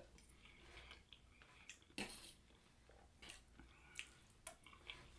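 Faint chewing of a mouthful of mashed potatoes and gravy: a few soft, wet mouth clicks and smacks spread over the few seconds.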